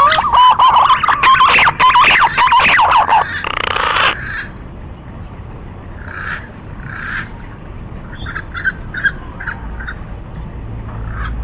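Green pigeon (punai) lure call: a loud run of wavering, whistled notes for the first three seconds, ending in a short noisy burst. Fainter, scattered short calls follow.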